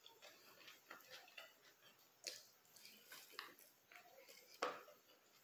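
Faint, close-miked chewing and small wet mouth sounds of a person eating, with scattered soft clicks and one sharper click near the end.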